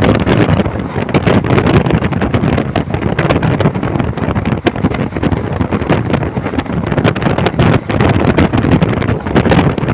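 Passenger train running: a steady, loud rumble with irregular rattling and clatter, and wind buffeting the microphone.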